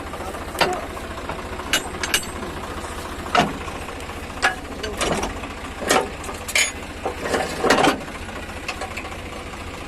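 Tractor diesel engine running steadily, with a dozen or so sharp knocks and clatters at irregular moments over it.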